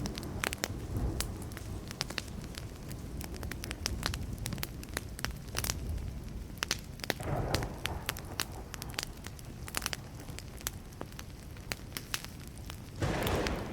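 Wood fire burning with dense, irregular crackling and popping. Two brief low swells come through it, one about halfway through and one near the end.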